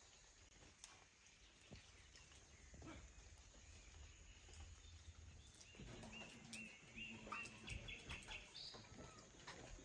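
Near silence: faint outdoor ambience with a low rumble. From about six seconds in, a bird chirps a quick series of short, high notes.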